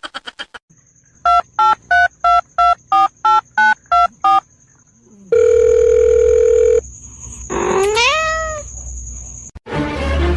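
A run of about ten short electronic beeps, about three a second, then a long steady electronic tone, followed by a cat's meow rising in pitch.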